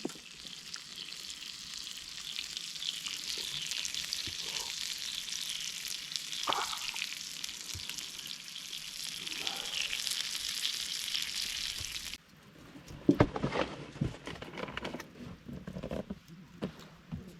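Food sizzling in a hot pan: a dense, steady sizzle that stops abruptly about twelve seconds in. A few sharp knocks and clatters follow near the end.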